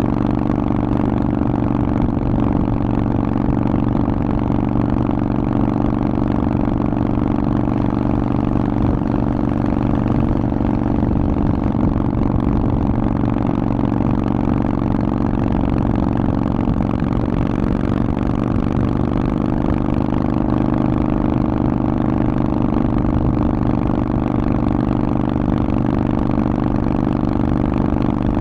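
Harley-Davidson Forty-Eight's air-cooled 1200 cc V-twin, breathing through a Vance & Hines exhaust, running steadily at a nearly constant engine speed, with a deep, even exhaust note.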